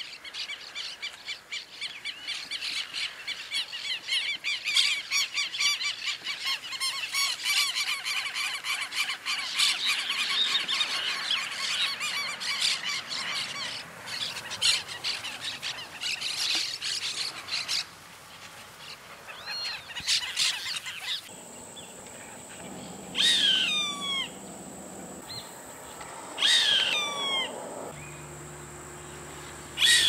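A dense chorus of rapid chirping birdsong fills most of the first eighteen seconds. Later, two loud, downward-sliding screams of a roadside hawk come about three seconds apart, over a steady high-pitched buzz.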